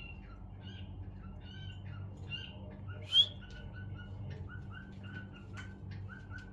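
Birds chirping in a quick run of short, repeated notes, with one louder, shrill call about three seconds in.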